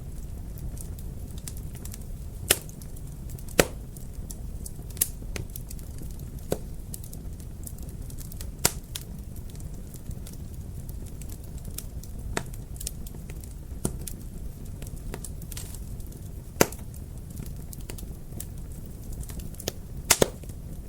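Wood fire crackling: a steady low rumble of burning with scattered sharp pops and snaps, a few loud ones standing out every few seconds.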